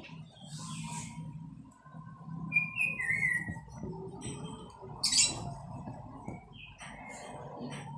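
A small bird chirps twice, about two and a half seconds in, over the scratchy strokes of a knife slicing fried pork on a wooden chopping board.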